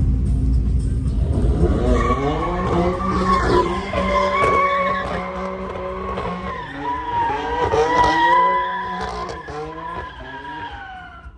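A car spinning its wheels, tyres squealing over the revving engine. A low engine rumble comes first, the squeal sets in about two seconds in and fades away near the end.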